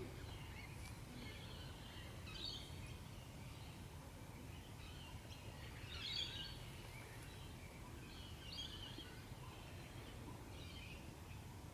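Faint outdoor background: a steady low rumble with birds calling now and then, short chirps scattered through, the clearest about six seconds in.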